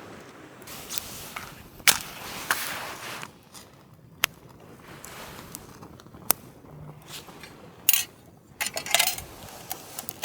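Handling sounds: a handful of sharp clicks and knocks, spaced a second or two apart, with short stretches of scraping and rustling between them.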